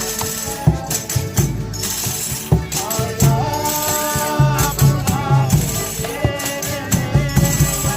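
Folia de Reis music: a tambourine shaken and struck in a steady rhythm with low drum beats, and voices singing long held notes that come in about three seconds in.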